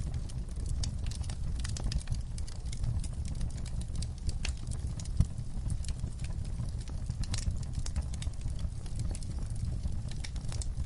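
Fireplace crackling: irregular sharp pops and snaps over a low steady rumble, with one louder pop about five seconds in.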